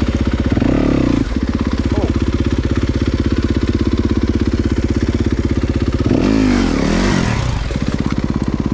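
Dirt bike engine running with a steady, even pulsing beat, revved up and back down twice, briefly about half a second in and again for about a second and a half from around six seconds.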